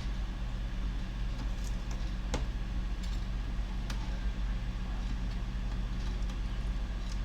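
A steady low hum in the background, with a few small sharp clicks of laptop parts being handled and fitted, the clearest about two and a half and four seconds in.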